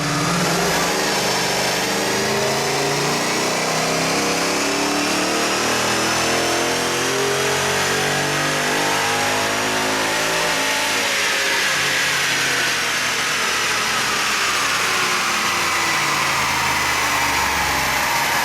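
Supercharged 5.0-litre V8 of a 2020 Ford Mustang GT, fitted with a Whipple supercharger and full exhaust, running and being revved. The engine pitch rises and falls gradually, climbing again around the middle.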